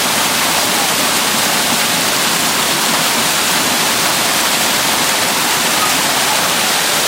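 Loud, steady rush of water from a waterfall and the river below it, an even hiss with no breaks.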